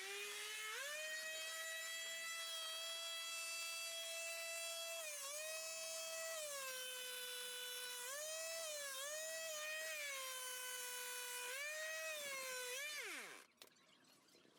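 Small electric power-tool motor spinning up to a high whine, dipping in pitch and recovering several times as it takes load, then winding down and stopping near the end.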